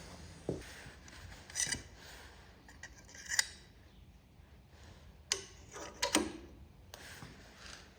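Metal utensils being handled: a handful of short, sharp clicks and clinks at uneven intervals, the loudest about three and a half seconds in.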